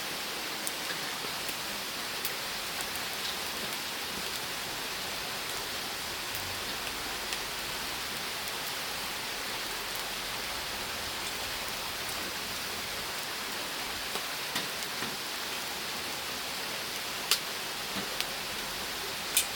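Firewood fire burning: a steady hiss with scattered sharp crackles and pops, a few louder pops near the end.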